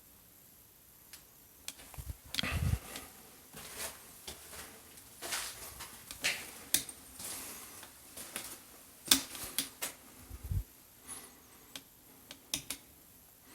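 Irregular clicks, knocks and short scuffs of someone moving about and handling things in a small room, with two dull thumps, one about two and a half seconds in and one near ten and a half seconds.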